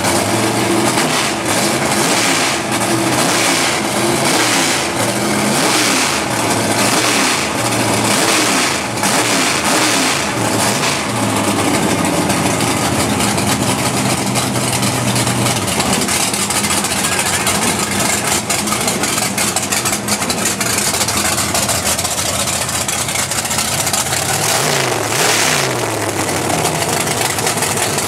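Drag race car's engine revving in quick repeated blips, its pitch swinging up and down many times, then holding a steady idle, with another short rev near the end.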